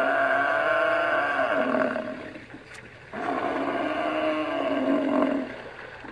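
Water buffalo bellowing: two long, drawn-out calls, the second starting about three seconds in.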